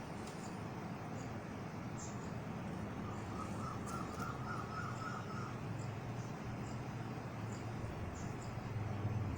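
Background ambience with short, high bird chirps now and then and a quick run of lower chirps in the middle, over steady background noise.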